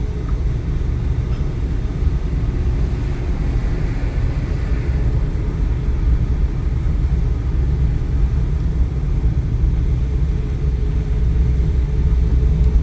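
Strong typhoon wind buffeting the microphone: a steady, loud low rumble that rises and falls a little with the gusts.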